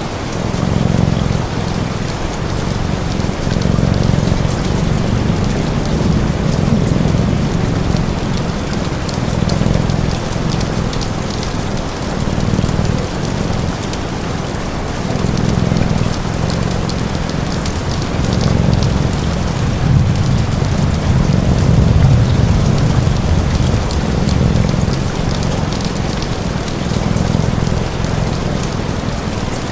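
Steady rain falling, with a low rumble that swells and fades underneath every few seconds.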